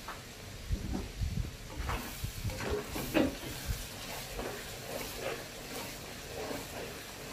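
A spatula stirring and scraping fried mackerel skin in a pan, with irregular knocks and scrapes that are busiest in the first half and lighter after that, over a faint steady hiss.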